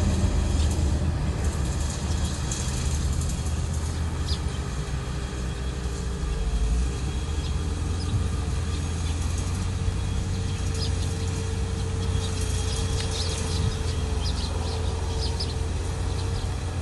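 Diesel engine of heavy earthmoving machinery running steadily, with a steady whine over a deep low drone and a few short high-pitched squeaks scattered through.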